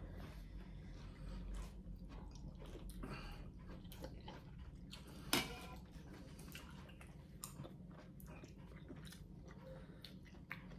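Soft eating sounds of people chewing watermelon and pho, with small scattered clicks of utensils against bowls and one sharper click about five seconds in.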